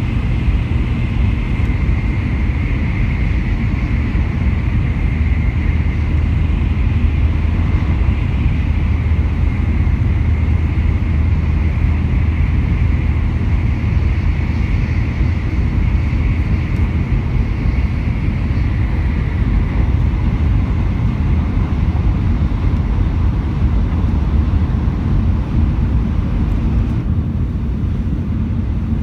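Shinkansen bullet train running, a steady low rumble that goes on without a break. A high whine rides on top of it and fades out about two-thirds of the way through.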